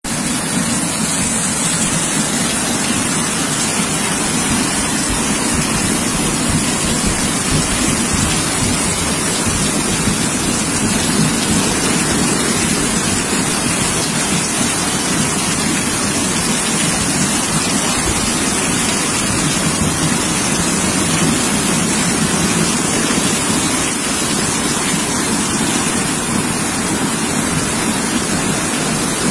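Torrential rain falling steadily together with the rush of muddy floodwater flowing through the street, a constant, unbroken wash of water noise.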